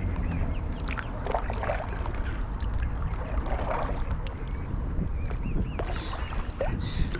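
Stand-up paddleboard paddle dipping and pulling through canal water, with small splashes and drips, over a steady low wind rumble on the microphone. A few short bird chirps come through.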